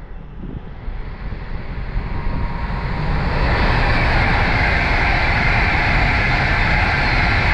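A train running past at speed. The rumble and rail noise build over the first three seconds, then hold steady and loud.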